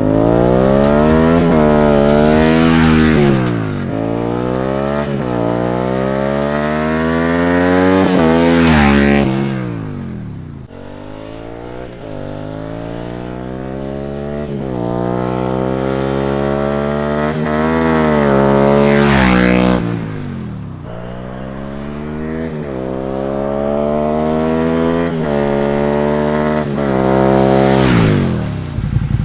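Suzuki SV650 V-twin with a Yoshimura carbon slip-on exhaust, dB killer removed, accelerating hard through the gears. The pitch climbs in steps and drops back at each shift, and the sound grows louder and then fades several times.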